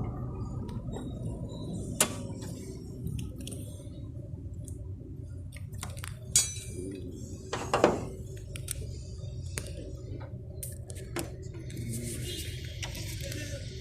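Scattered light clinks and knocks over a low steady hum, with sharper knocks about 6 and 8 seconds in.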